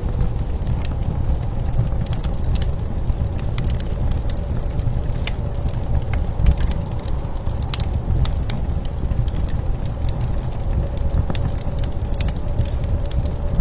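Wood fire crackling with scattered sharp pops over a steady low rumble of blizzard wind, with a faint steady tone in the background.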